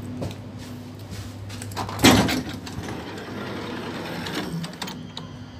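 Steady low hum of a double-deck regional train standing at the platform. About two seconds in, one loud, sudden burst of noise, a thump with a short hiss, dies away within half a second.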